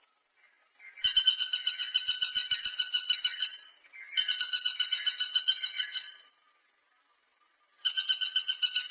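Woodpecker calling: three bouts of fast, evenly repeated high notes, about eight a second, each bout lasting two to three seconds before fading out.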